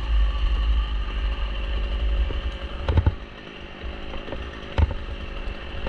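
Chainsaw engine running steadily, with two sharp knocks: one about three seconds in and one near the end.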